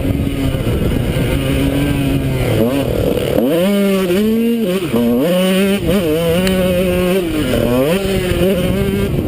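Honda CR125 two-stroke single-cylinder motocross engine being ridden hard, its pitch rising and dropping several times with the throttle, heard from a helmet-mounted camera.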